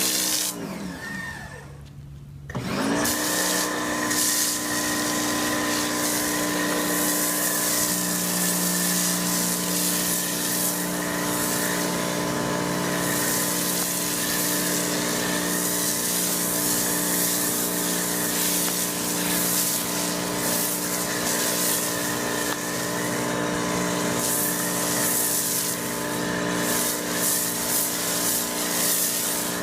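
AR Blue Clean AR390SS electric pressure washer switching on briefly and stopping, then starting again about two and a half seconds in and running steadily with a hum and the hiss of the spray. The motor and pump run only while the spray trigger is held.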